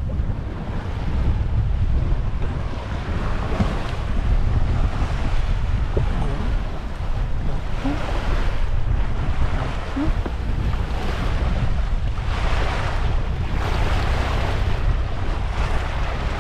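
Wind buffeting the microphone over the rush of water along a sailboat's hull as it sails through a small swell, the water noise swelling and easing every second or two. A few brief faint squeaks sound in the middle.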